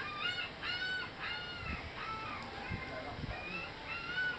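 A bird giving a series of short, clear, arched calls, about two a second. A few dull low thumps come in the middle.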